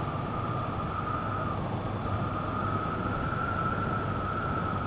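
Wind rushing over a motorcycle rider's helmet camera at road speed, with a steady high whistle and the 2017 Honda CB500F's parallel-twin engine running underneath.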